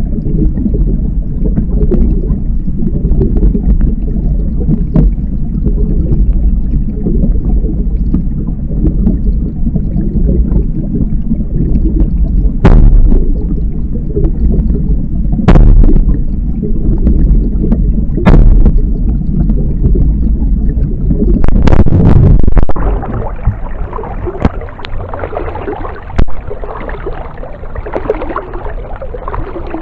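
Kayak paddling: a loud low rumble with a few sharp knocks of the paddle against the kayak, then water splashing and trickling off the paddle blades during the last several seconds.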